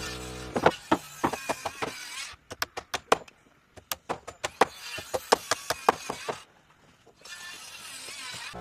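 Carpentry knocking on timber: a series of sharp, irregular strikes, two to four a second, stopping and restarting twice with short near-quiet gaps.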